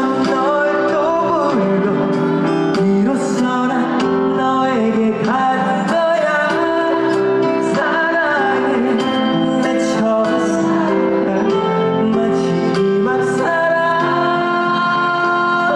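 Live male vocalist singing a Korean trot song over loud instrumental backing, the melody held and wavering over steady accompanying notes.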